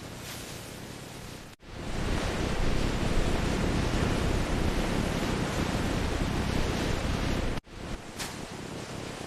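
Steady rushing noise in three stretches split by abrupt cuts about one and a half seconds in and near the end; the middle stretch is louder and deeper.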